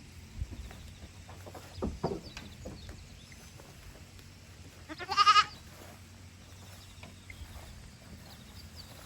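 A young goat kid bleats once, about five seconds in: a short, quavering call. A few dull knocks come earlier.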